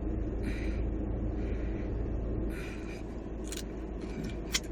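A few short crunches and two sharp clicks from eating nacho chips, over a steady low rumble.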